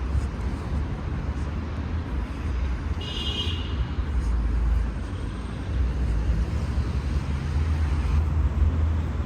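City street traffic noise: a steady low rumble of passing cars, with a brief high-pitched squeal about three seconds in.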